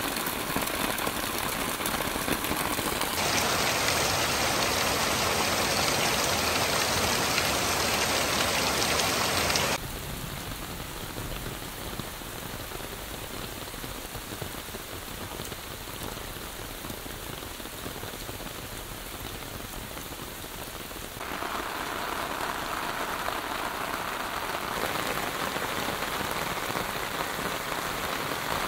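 Heavy monsoon rain, a steady hiss of drops on ground, leaves and concrete. The level and tone jump abruptly several times as the sound cuts between spots, and it is loudest from about three to ten seconds in.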